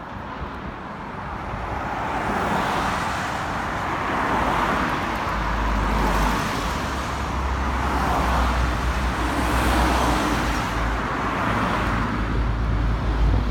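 Road traffic going past close by, several cars one after another, each swelling and fading. A low rumble comes in about five seconds in.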